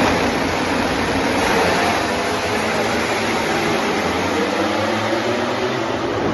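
MotoGP racing motorcycle engines running at high revs, heard as a steady, dense engine noise.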